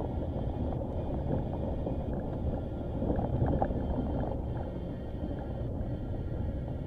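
Nissan Qashqai being driven along a rough dirt track: a steady engine and tyre rumble, swelling briefly around the middle.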